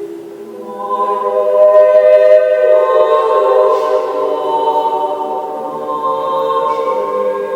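A choir singing unaccompanied, holding long sustained chords and moving to a new chord about a third of the way through.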